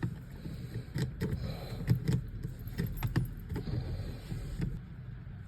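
A car's starter motor cranking the engine slowly and unevenly in repeated labored pulses, with clicks, without it catching: the battery is too weak to turn it over properly.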